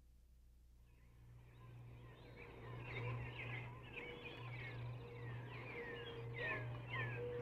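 Birds chirping, many short downward-sweeping calls fading in after about a second and building, over a low steady hum.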